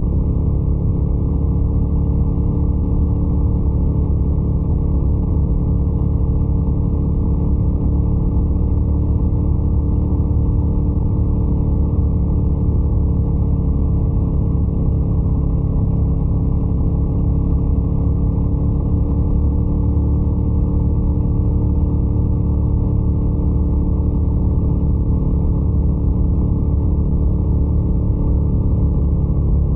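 Scrambler 800 motorcycle's twin-cylinder engine running steadily, its pitch drifting a little up and down.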